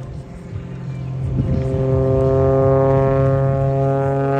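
Extra 330 aerobatic plane's piston engine and propeller droning, growing louder about a second and a half in and then holding a steady pitch.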